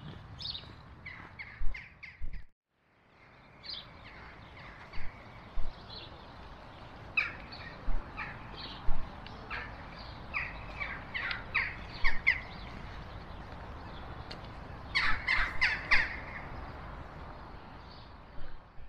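Birds calling outdoors in many short, separate calls, with a quick run of about five calls about three quarters of the way through, over a faint steady background. The sound cuts out briefly about two and a half seconds in.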